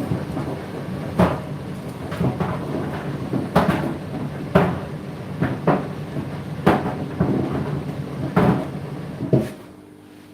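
Condenser tumble dryers running, with wet laundry thudding and knocking irregularly as the drums turn. Near the end the tumbling stops abruptly, leaving a steadier, quieter hum.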